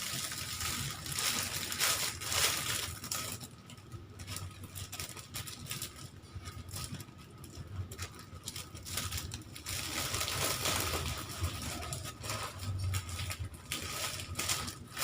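Plastic snack packaging rustling and crinkling as snacks are handled and packed into gift bags, in irregular rustles that turn quieter for a few seconds in the middle.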